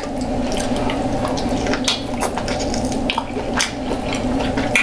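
Close-miked wet chewing and lip-smacking of a person eating seafood, a run of short sharp wet clicks and smacks over a steady low hum.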